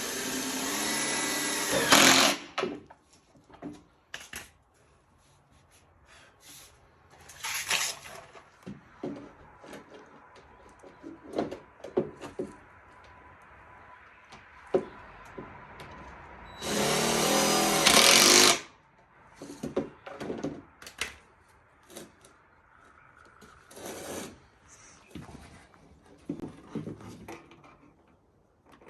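Power drill driving self-tapping screws in short runs: a steady whine at the start, brief runs about 2 and 7 seconds in, a longer run of about a second and a half past the middle, and another near the end, with knocks and clicks of handling between.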